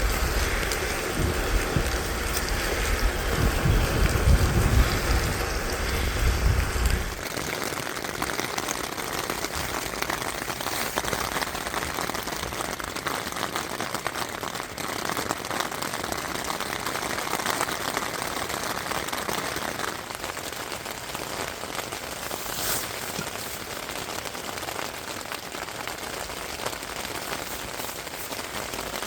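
Steady rain falling in a forest. A low rumble lies under it for the first seven seconds or so and cuts off suddenly.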